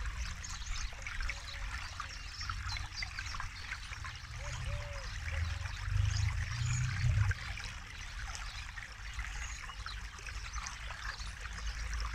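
Forest river flowing, a steady babbling trickle of water with a low rumble that swells for a few seconds around the middle.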